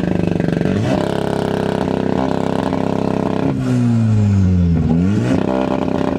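Car engine running hard at high revs. About three and a half seconds in its pitch falls for a second and a half, then it climbs quickly again.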